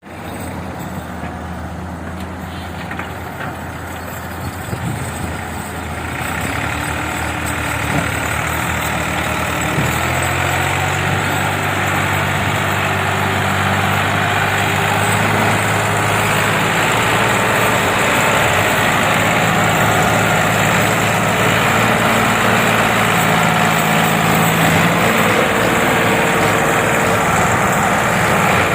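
Tractor engine running, growing louder and rising in pitch over the first ten seconds or so, then holding steady at high revs.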